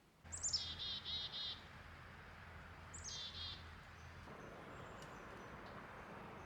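A songbird sings two short phrases about three seconds apart, each a high opening note falling into a quick run of repeated notes. A steady outdoor hush with a low hum lies underneath, and faint high repeated chirps carry on in the background after the second phrase.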